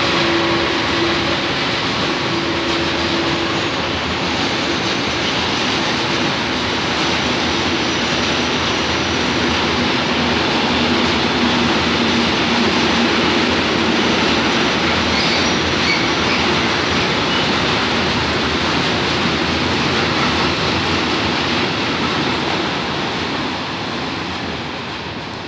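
A long train rolling past at steady speed: a continuous rumble of wheels on rails, with a wheel squeal over the first few seconds and a lower, fainter one about ten seconds in. The sound eases off near the end.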